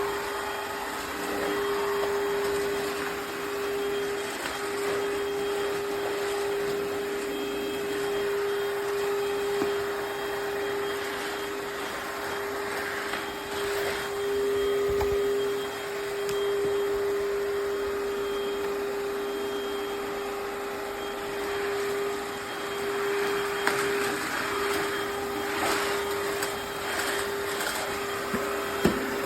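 EUREKA cordless wet-dry floor vacuum running steadily, its motor giving a constant hum over a rushing hiss, with a few brief swishes near the end.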